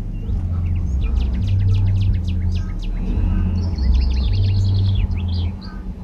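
Small birds chirping in two quick runs of rapid, repeated high notes, over a heavy low rumble on the microphone.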